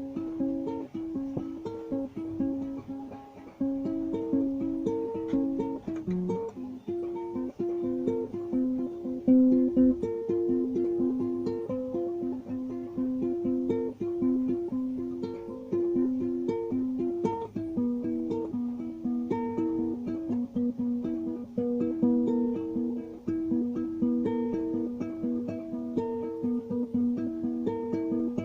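Solo plucked-string instrument of the guitar family playing a melody of short picked notes.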